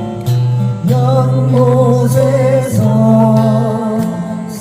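A slow song sung with long held notes over acoustic guitar accompaniment, the word "연못에서" ("in the pond") sung near the end.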